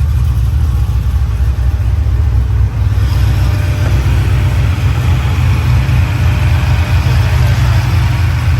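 6.0-litre LS V8 in a 1987 Chevrolet Caprice idling steadily with a strong low rumble. About three seconds in, a brighter rush of noise grows louder over it.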